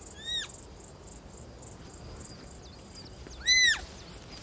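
Roe deer fawn giving two short, high, thin bleats that rise and then fall in pitch: a faint one at the start and a loud one about three and a half seconds in. Behind them, meadow insects chirp in a fast, even rhythm.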